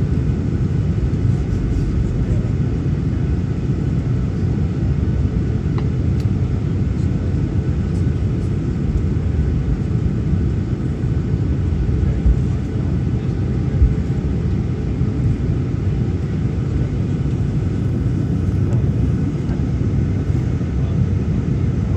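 Steady low rumble inside the cabin of a Boeing 737-900ER, its CFM56 engines running with a faint high whine over it. There are two brief knocks about twelve and fourteen seconds in.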